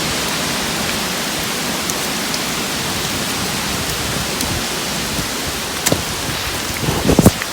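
Steady rain falling, with a few sharp knocks near the end.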